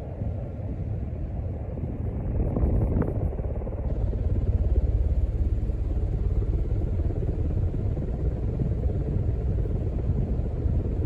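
1987 Casablanca Zephyr ceiling fan running steadily at speed 6: a low motor hum and the rush of air from the blades, with a few faint ticks about three seconds in.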